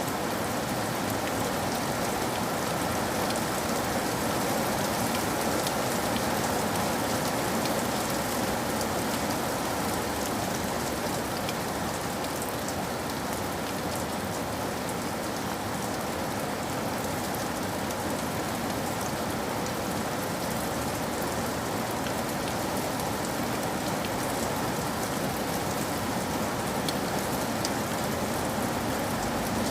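Steady rain falling, an even rushing hiss with scattered drops ticking on a surface.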